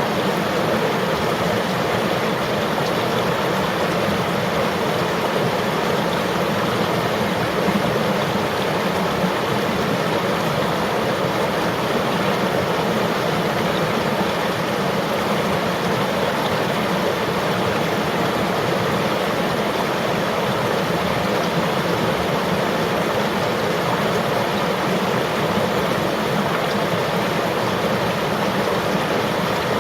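River water flowing steadily, an even rushing and burbling with no breaks.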